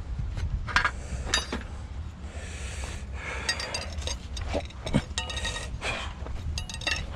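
Metal clamps clinking and knocking as they are handled, a few light metallic strikes that ring briefly, with some scraping in between, over a steady low rumble.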